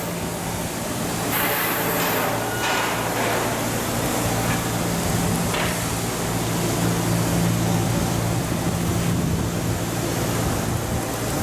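Machinery running steadily: a low hum under an even hiss, with a few faint knocks.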